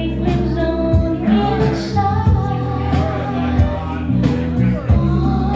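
Live band playing a yacht-rock song, with regular drum hits under held notes, and a voice singing.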